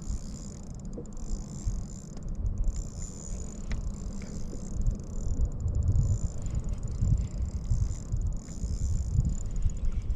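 Wind buffeting the microphone as an irregular low rumble, with a few faint clicks from the kayak and fishing gear.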